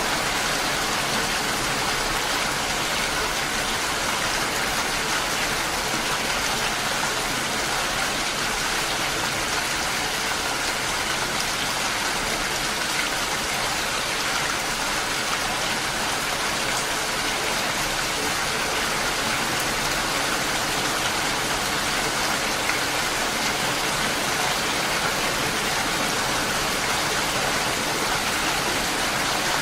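Steady, heavy rain: a continuous even hiss of rainfall with no distinct drops or breaks.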